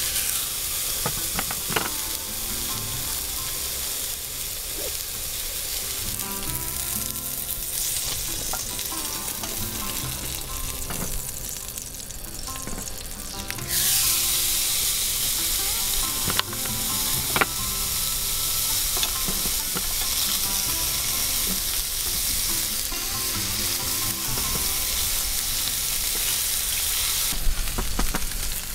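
Food sizzling as it fries in a pan. The sizzle gets suddenly louder about halfway through, and there are a few sharp knocks.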